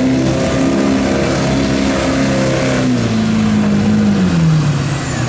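Diesel pickup truck engine working hard under load as it pulls the sled, its note steady and then dropping in pitch from about four seconds in as the truck slows. A high whine falls steadily over the second half.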